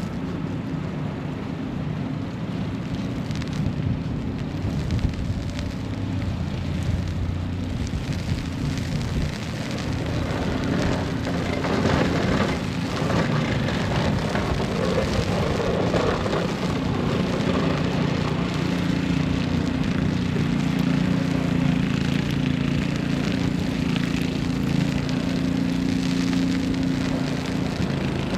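City street ambience in a snowstorm: a steady hiss with a low hum underneath that grows louder and fuller from about ten seconds in.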